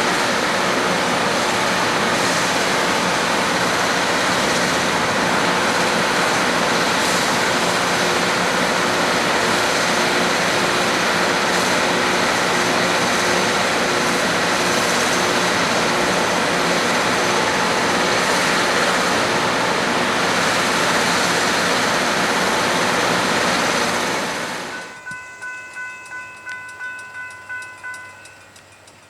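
A train passing close by, a loud steady rumble and rush that cuts off about 24 seconds in. A bell then rings in an even rhythm, about two strokes a second, typical of a railroad crossing bell, and stops shortly before the end.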